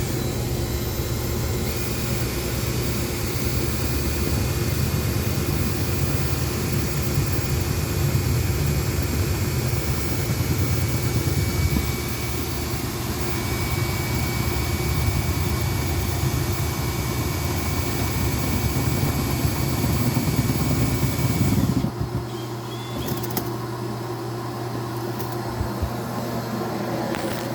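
Duct-cleaning equipment running: a steady motor drone with a low hum and a thin high whine, turning quieter near the end.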